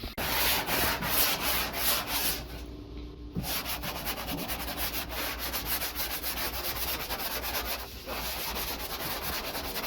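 Sandpaper rubbed back and forth over the rust patch on a truck bed's steel side panel, in quick, even strokes several a second, pausing briefly about three seconds in.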